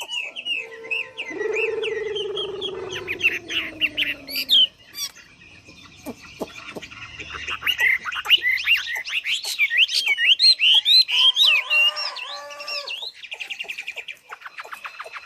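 A mi songbird (silver-eared laughingthrush) sings a fast, varied song of sliding chirps and whistles. In the first few seconds a lower, drawn-out call falls slowly in pitch under the song.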